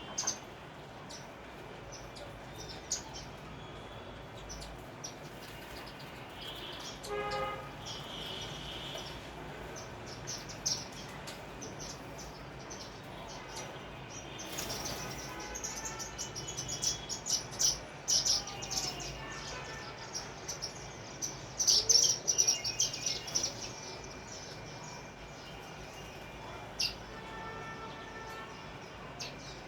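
Sparrows chirping: many short, high chirps, growing into a busy, louder run of chirping about halfway through, then thinning out again.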